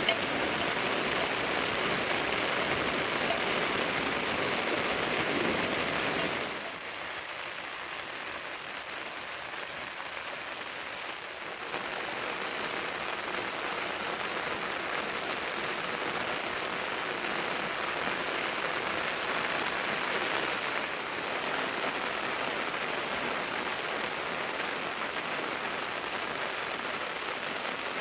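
Steady rain falling, an even hiss. It drops to a quieter, thinner sound about six seconds in and comes back louder about five seconds later.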